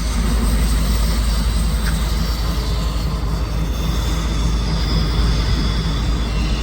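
Tail end of a loaded CSX autorack freight train rolling past: a steady heavy low rumble of wheels on rail and the rear distributed-power locomotive, a GE ES44AC-H diesel, with faint high wheel squeal.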